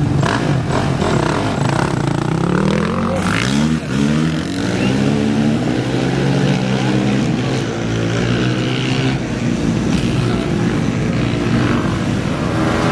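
An off-road race vehicle's engine revving hard as it pulls away from the start line. Its pitch climbs in steps through the gears, then falls away over several seconds as it goes off down the course.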